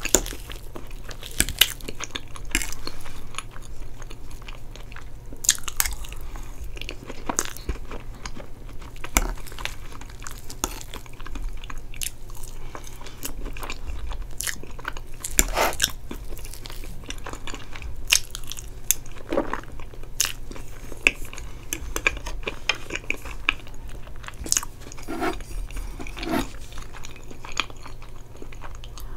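Close-miked eating of soft chocolate cake with caramel sauce and whipped cream: irregular chewing and biting with sharp mouth clicks. Near the end comes a sip from a glass.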